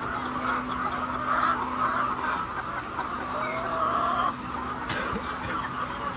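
A flock of laying hens clucking together in a henhouse, one steady chatter of many birds over a steady low hum, with one hen's drawn-out call near the middle and a single knock about five seconds in.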